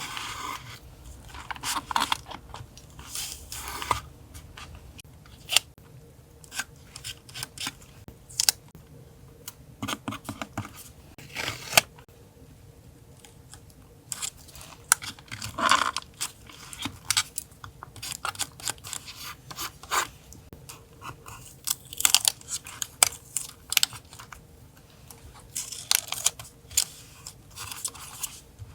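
Paper collage work at a desk: irregular rustles, crinkles, peels and light clicks of stickers and paper being handled, cut and pressed down. A faint steady hum runs underneath.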